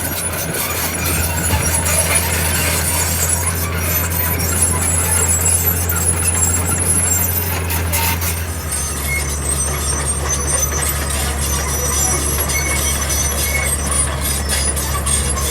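Heavy earthmoving machinery at work: a diesel engine running with a steady deep hum, with high metallic squealing from a bulldozer's steel tracks running through it. The engine note drops slightly a little past halfway.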